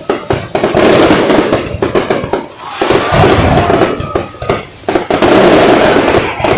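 Fireworks going off: a dense run of rapid bangs and crackling, with louder clusters near the start, in the middle and near the end.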